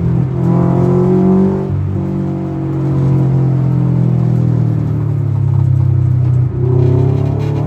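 Subaru Impreza 2.0R's naturally aspirated 2.0-litre flat-four, fitted with an aftermarket Japspeed header and 3-inch exhaust, heard from inside the cabin under way. The revs rise and fall as it is driven, dropping sharply about two seconds in and again near the end.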